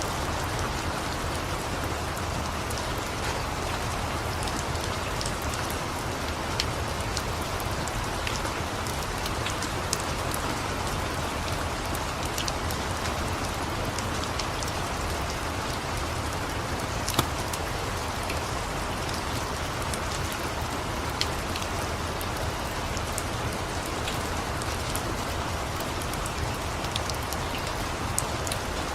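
Steady, even rain with a low rumble beneath it. A few sharp crackles from a wood fire pop out now and then; one about halfway through is the loudest.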